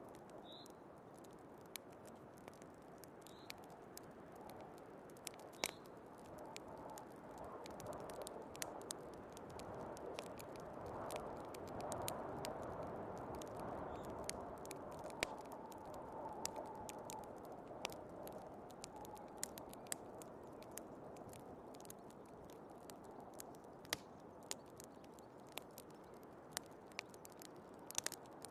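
Wood fire crackling with scattered sharp pops, over a steady rush of storm wind that swells about ten seconds in and eases again.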